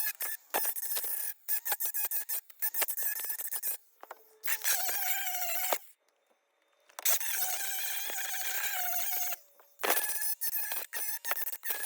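MIG welder tacking holes in thin car body sheet metal: about five bursts of crackling arc, each a second or two long, with short pauses between.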